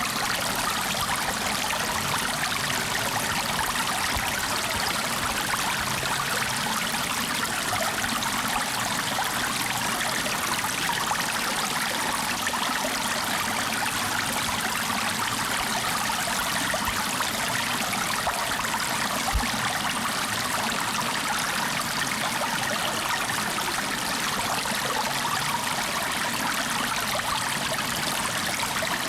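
Flowing water running steadily, an even rushing and trickling like a stream that does not change, with one brief low knock about two-thirds of the way through.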